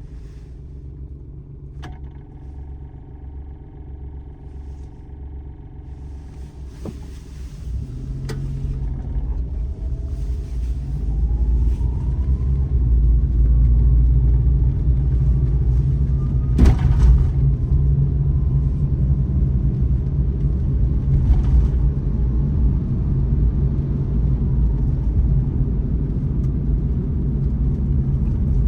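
Daihatsu Terios Kid driving on a forest road: a steady low rumble of its small three-cylinder engine and road noise. The rumble grows louder over the first dozen seconds as the engine note rises, with a few sharp knocks along the way.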